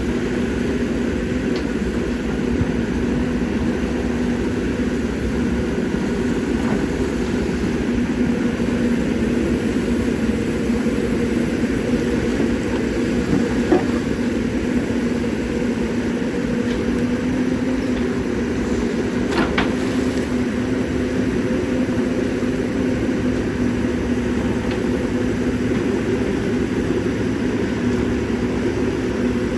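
Caterpillar 320D excavator's six-cylinder diesel engine running steadily under work, with a few brief sharp knocks, the loudest about halfway through and another some six seconds later.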